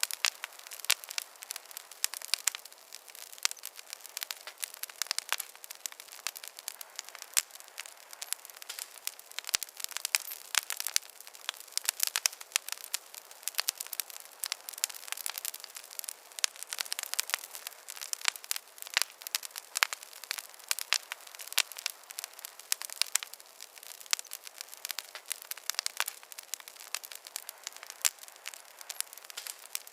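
Wood fire crackling in a fireplace: a dense, irregular stream of sharp pops and snaps over a soft hiss, with little low rumble.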